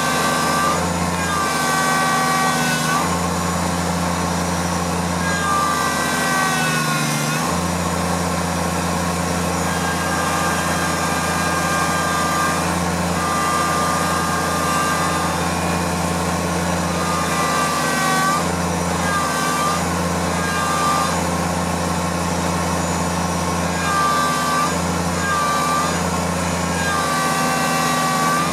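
Kubota tractor's diesel engine running steadily, with a brief sag and recovery in engine pitch about seven seconds in. A high-pitched whine comes and goes every few seconds over the engine.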